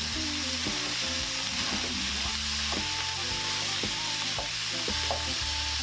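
Ground beef (80% lean, 20% fat) frying in a hot pan, a steady sizzle of the fat.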